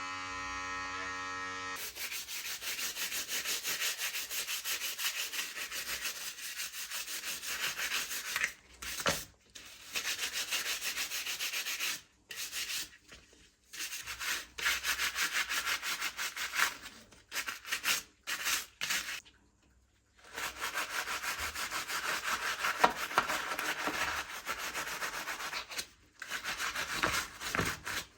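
Rapid rubbing or scrubbing strokes on the plastic of a remote control being cleaned, a rasping noise in stretches with short pauses between them. It opens with a steady electric hum that stops about two seconds in.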